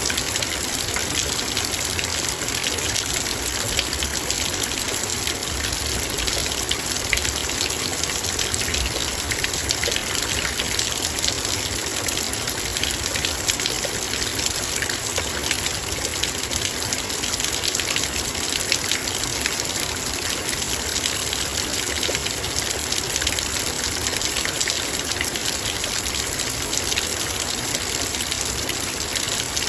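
Heavy rain falling steadily, raindrops pattering on a metal bowl as a dense even hiss sprinkled with many small ticks.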